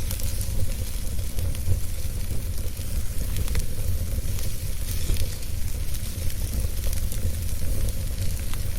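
Wood fire burning in a fireplace, with a steady low rumble and irregular small pops and crackles throughout.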